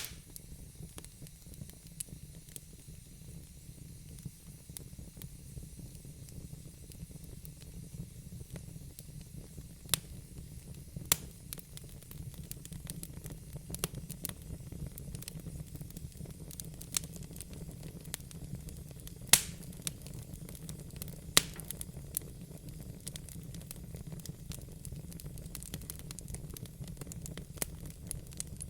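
Wood fire burning in a fireplace: a steady low rumble and soft hiss, with scattered sharp crackles and pops, the loudest about ten, eleven, nineteen and twenty-one seconds in.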